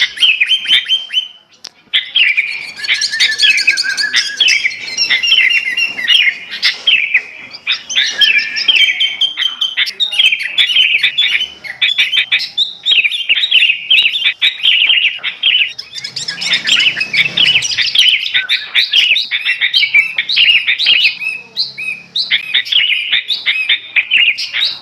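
Bird-trapping lure recording: busy chattering calls of the kutilang emas bulbul mixed with many small birds' rapid chirps and twitters, with a short lull about a second and a half in.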